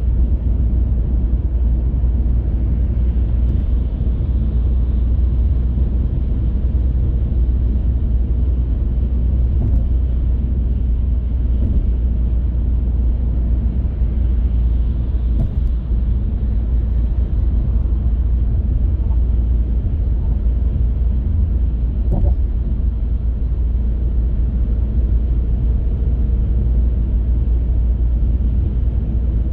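Car driving at a steady pace: continuous low rumble of road and tyre noise, with a couple of faint knocks around the middle.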